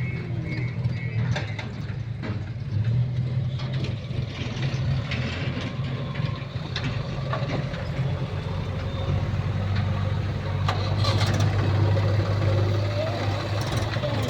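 Heavy diesel engine of loading machinery running steadily, getting louder from about ten seconds in, with a few short knocks over it.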